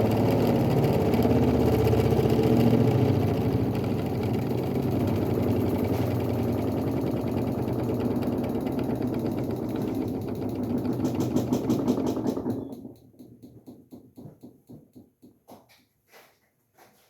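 Kuppet twin tub washer's spin basket running with a steady motor hum while it spins water out of the clothes. The motor cuts off about 13 seconds in, followed by a run of ticks that slow down as the basket winds down.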